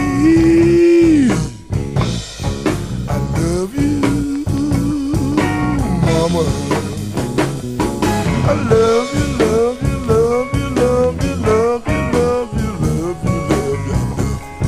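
Blues band playing an instrumental break: a lead line of long held notes bent up and down over guitar, bass and drums, with a run of short bent phrases from about six seconds in.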